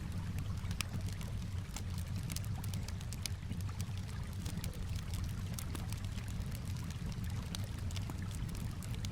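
Campfire crackling, with many small irregular pops, over a steady low wash of calm water.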